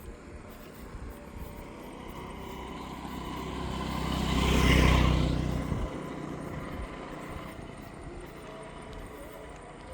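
A motor vehicle passing by on the road, growing louder to a peak about five seconds in and then fading away.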